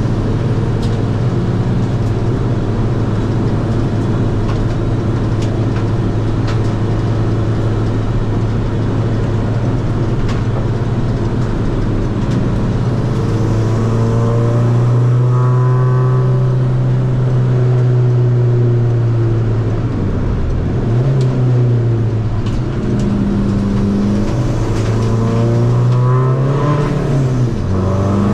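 Tuned Seat Ibiza FR's 2.0 common-rail diesel engine running steadily, then pulling harder about halfway through, with two brief drops in engine pitch in the second half.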